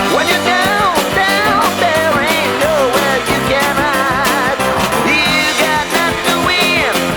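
Early-1970s pop-rock recording: a lead melody sliding and bending with a wavering vibrato over a steady drum beat and backing instruments.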